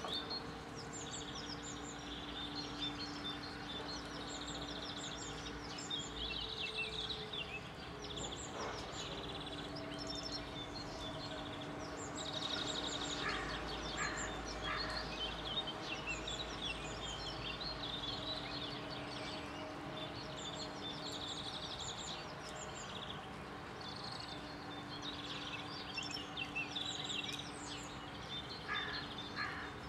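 Songbirds chirping and trilling, many short calls overlapping, over a faint steady hum that comes and goes. A low rumble swells about halfway through.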